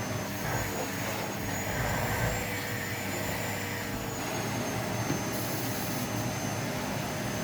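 Vacuum cleaner motor running steadily, its airflow used to blow-dry hair, with a faint high whine.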